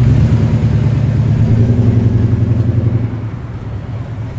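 Holden Commodore's engine and exhaust at low, steady revs as it drives past, its note fading away about three seconds in.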